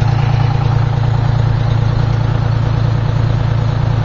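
A vehicle engine idling close by, a steady low drone that does not change.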